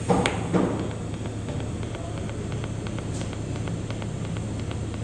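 TIG welding arc hissing steadily from a Hitbox welder, with faint regular ticks over a low hum. Two sharp knocks come in the first second.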